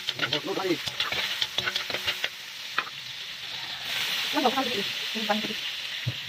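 Onion and ginger sizzling in hot oil in a steel wok, with a metal utensil scraping and clicking against the pan during the first three seconds. The sizzle gets louder about four seconds in.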